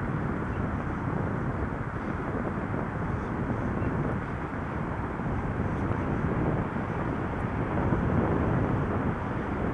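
Wind buffeting the microphone while riding a bike: a steady, rushing rumble that swells and dips throughout.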